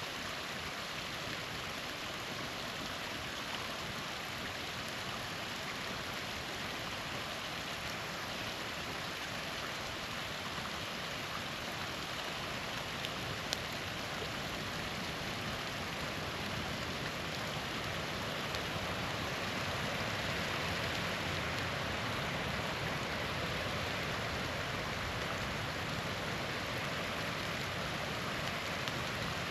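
Small waterfall splashing and rushing steadily, with one faint click about halfway through.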